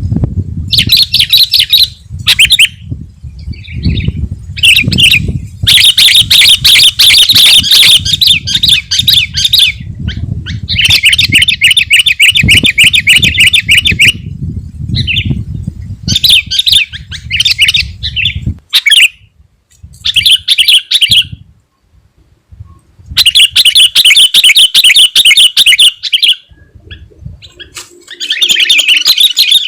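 Sooty-headed bulbul in full song: loud bursts of rapid, chattering phrases, each a second to a few seconds long, separated by short pauses. A low rumble runs underneath and stops about 18 seconds in.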